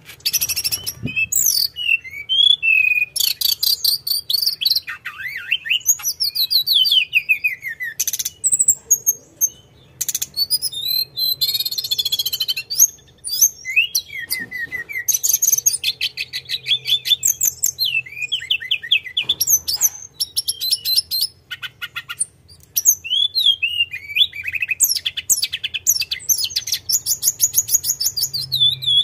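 Tledekan gunung songbird singing continuously in full voice, rapid rolling trills mixed with quick high whistled notes that slide downward, broken by a few short pauses.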